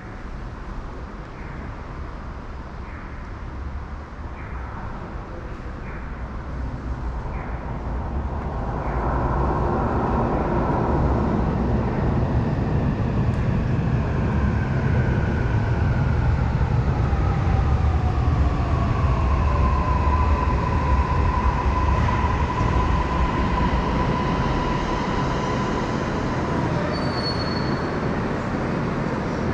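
Toei Mita Line train pulling into an elevated station platform. Its rumble builds over a couple of seconds, and its motor whine falls in pitch as it brakes, then levels off as it comes to a stop.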